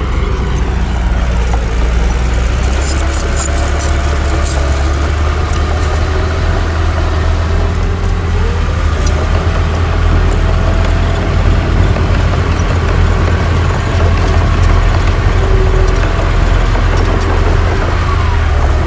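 Heavy diesel engine of earthmoving machinery running steadily with a deep rumble, with a few sharp metallic clanks about two to five seconds in.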